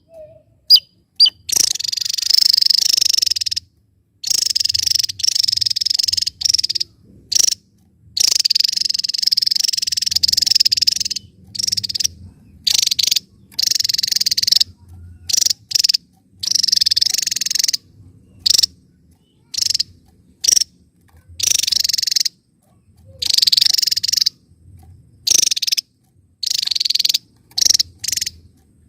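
Javan tesia singing: repeated bursts of rapid, high-pitched trilling song, some brief and some lasting two to three seconds, separated by short pauses.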